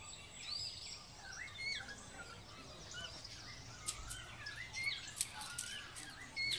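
Several birds calling and singing: many short chirps that rise and fall in pitch, repeated throughout over faint outdoor background noise. A few faint clicks come in the second half.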